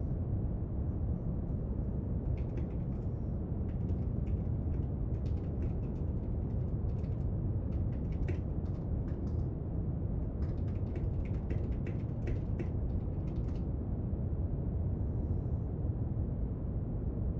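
Steady brown noise with bursts of light, irregular clicks from small desk-work actions over it, in two runs: from about two seconds in to nine seconds, and again from about ten to thirteen and a half seconds.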